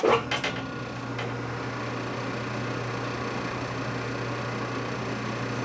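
A metal lathe is switched on at the start and then runs steadily with an even motor hum, ready for a facing cut.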